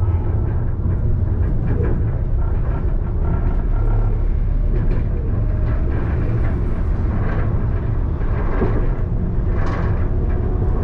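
Alstom Citadis tram running, a steady low rumble with scattered clicks.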